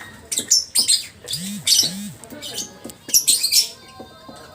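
Lovebird ngekek: shrill, high chattering calls in quick bursts, several clusters one after another.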